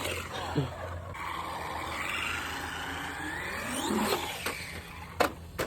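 An RC car's motor whining, its pitch rising and falling as the car speeds up and slows down, with a few sharp knocks of the car hitting the ground or ramps.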